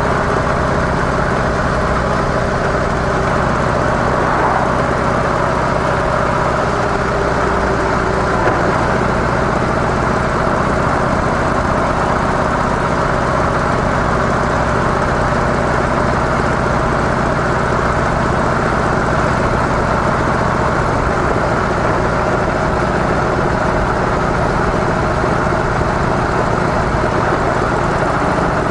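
Harley-Davidson CVO Softail's air-cooled V-twin, on its stock mufflers, running steadily with no change in revs, under an even rush of noise.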